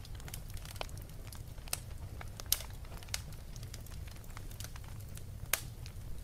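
Wood fire crackling in a fireplace: irregular sharp pops over a low steady rumble, with two louder pops about two and a half seconds in and near the end.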